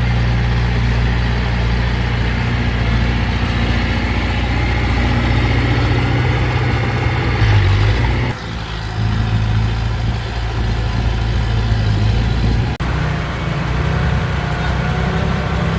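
Diesel engines of heavy earthmoving machinery running steadily, with a low, even drone. The sound shifts abruptly about eight seconds in and again about thirteen seconds in.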